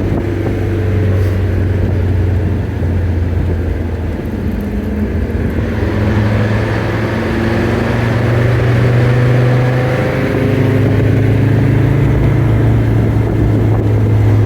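Mercedes turbo diesel engine in a 1994 Toyota 4Runner, heard from inside the cab while driving, with a steady low drone. Its pitch rises as it pulls for a few seconds, then drops about ten seconds in.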